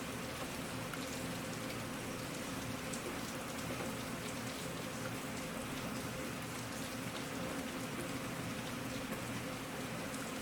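Steady rainfall, with many small drops ticking on a surface.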